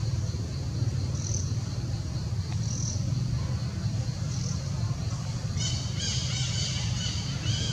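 Forest ambience: birds calling, with faint short high chirps about every second and a half, then from about five and a half seconds in a rapid run of repeated high calls. A steady low rumble sits underneath throughout.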